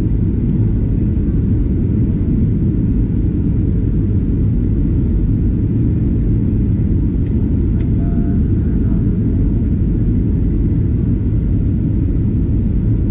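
Steady low rumble inside an airliner cabin: engine and airflow noise heard from a passenger seat.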